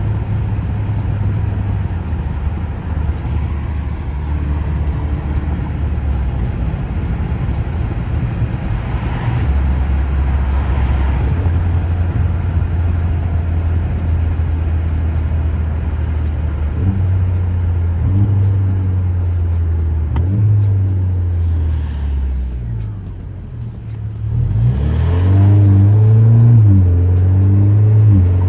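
2017 Alfa Romeo Giulia's turbocharged four-cylinder with a muffler delete, cruising: a steady low exhaust drone that steps up and down in pitch, dips briefly, then gets louder and climbs as the car accelerates near the end.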